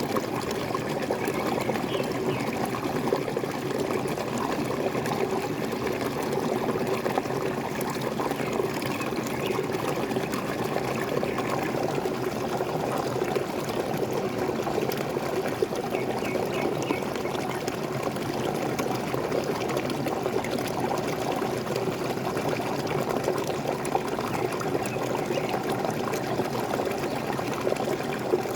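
Waterfall splashing steadily, an even rush of falling water with no let-up.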